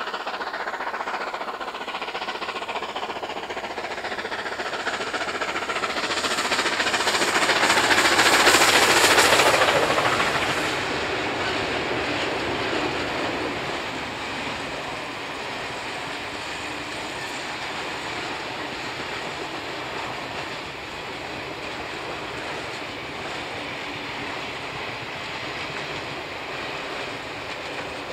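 A passing train led by C38-class steam locomotive 3801, with two diesel locomotives coupled behind it. The sound builds to its loudest about eight to ten seconds in as the locomotives go by, then the carriages roll past on the rails at a lower, steady level.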